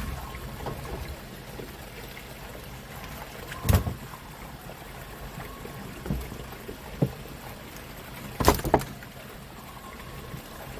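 Fishing boat's engine running steadily with a trickle of water, broken by a few sharp knocks, two of them loud, at about four and eight and a half seconds in.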